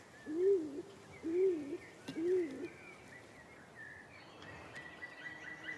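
Stock dove cooing: three low hooting notes, each rising and falling in pitch, about a second apart, with faint small-bird chirps behind.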